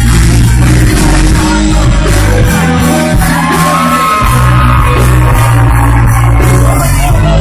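A live band playing loud, with heavy bass and drums and a voice singing the melody over them, plus some shouting.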